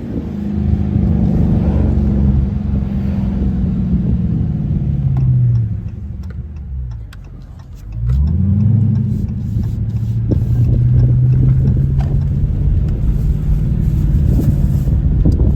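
Straight-piped Dodge Charger R/T V8 exhaust running steadily, its pitch falling as it slows about five seconds in. It then goes quieter for a couple of seconds, rises sharply as the engine is revved up around eight seconds in, and settles back into a steady drone.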